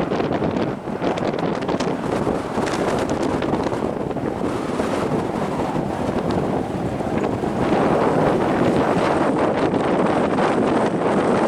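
Strong wind buffeting the microphone: a dense, rushing noise with no steady tone, getting louder about eight seconds in.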